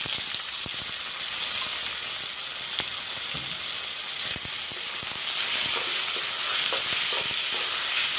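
Freshly added raw chicken pieces sizzling in hot oil with onions, chilies and ginger-garlic paste, with a few clicks of a spoon as the pan is stirred.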